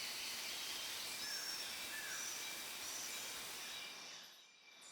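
Rainforest ambience: several birds calling with short whistled notes over a steady hiss, fading out about four seconds in.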